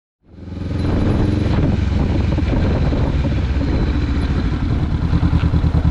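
A motorcycle engine running at a steady idle, fading in quickly from silence and settling into an even, rapid throb near the end.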